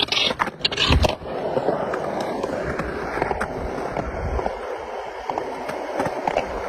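Skateboard: a few sharp knocks and a heavier thump about a second in, then the wheels rolling steadily.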